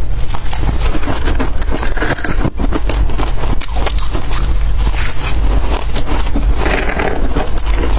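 Freezer frost being scraped and crunched close to the microphone: a dense, continuous run of crackling scrapes.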